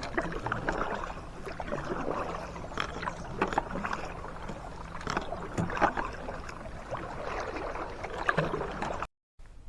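Kayak paddle strokes dipping and splashing in lake water, irregular splashes every second or so; the sound cuts off suddenly near the end.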